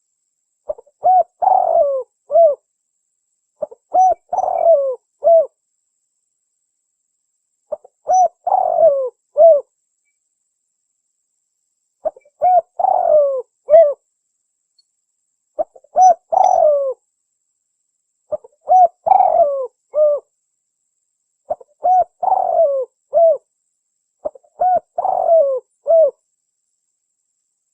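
Spotted dove (tekukur) cooing: a phrase of several short coos, repeated about eight times a few seconds apart with dead silence in between, as in a recorded lure call.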